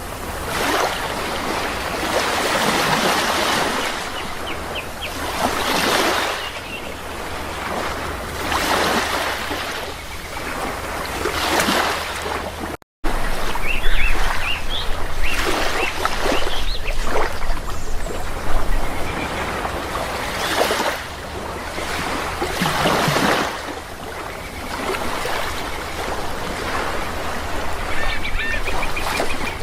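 Sea waves washing onto a shore in surges every few seconds, with short bird calls over them. A split-second break cuts the sound about halfway through.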